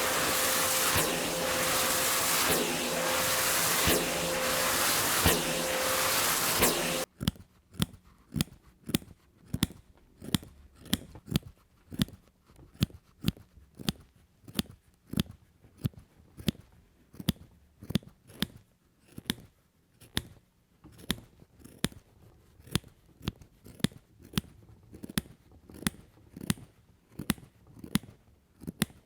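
A power tool runs with a steady hum and stops abruptly about seven seconds in. Then scissors snip at a steady pace, about two cuts a second, trimming rug yarn.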